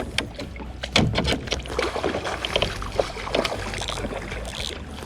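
Irregular knocks, clicks and rustling of handling aboard a kayak, with several sharper knocks about a second in.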